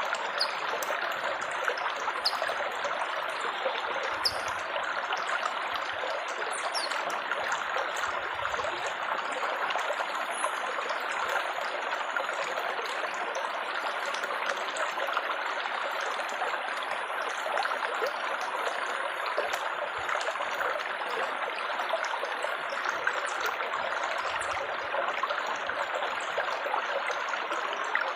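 Water trickling and splashing steadily, an even, unbroken running-water sound.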